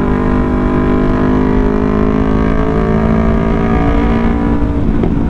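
Yamaha R3's parallel-twin engine running at a steady speed under way, its note holding nearly level, over a dense low rumble of wind and road noise.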